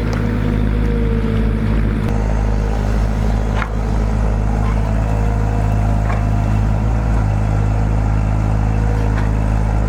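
An engine running steadily at a constant speed, with a few faint clicks.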